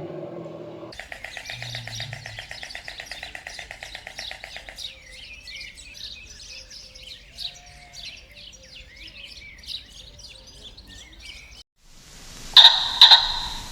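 Birds chirping in a dense run of quick, high chirps. After a short break near the end come two loud, sharp calls half a second apart.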